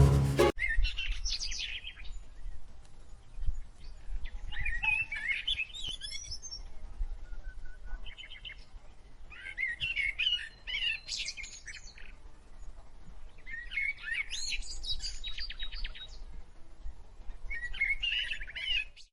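Wild birds singing, with quick high chirps and warbles in about six separate bursts a few seconds apart, over a low steady rumble. A little background music cuts off about half a second in.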